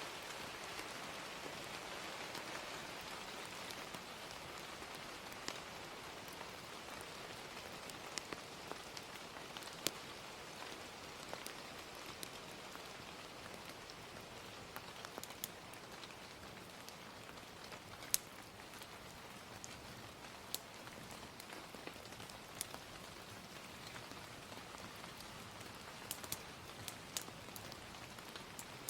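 Gentle rain, a steady soft hiss, with sharp crackles and pops from a wood fire scattered irregularly through it.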